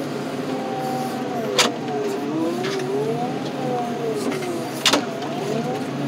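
Heavy equipment's engine and hydraulics running steadily, with a whine that rises and falls as the controls are worked to lift a car onto the rack. Two sharp metallic knocks, about one and a half seconds in and near five seconds in.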